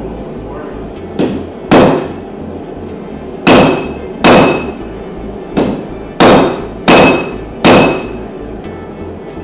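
Eight hammer blows on steel, some with a short metallic ring, as a hole is punched through hot steel. The blows come unevenly, in pairs and short runs.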